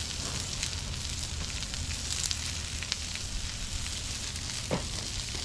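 Potato chunks, green pepper and red onion sizzling steadily on a hot flat top griddle, with small crackling pops throughout.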